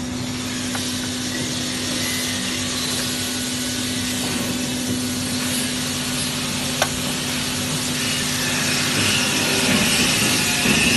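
TIG welding arc on stainless steel sheet, a steady hiss with a low hum under it, with one sharp click about seven seconds in. The sound grows a little louder and rougher near the end.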